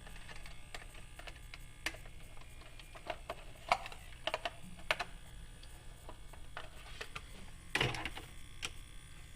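Irregular light clicks and taps of small plastic and metal parts being handled on an RC model snowcat's plow mount and body clips, with a short scraping rustle near the end.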